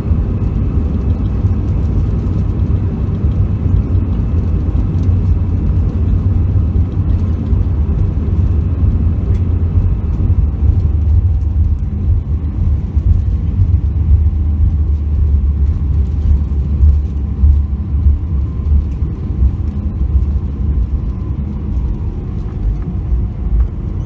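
Cabin noise inside an Airbus A321 rolling on the ground after landing: a steady, heavy low rumble from the engines and the wheels, with a faint steady whine above it, easing a little about halfway through.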